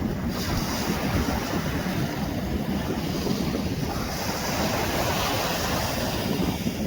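Beach ambience: steady surf washing on the shore, with wind buffeting the microphone.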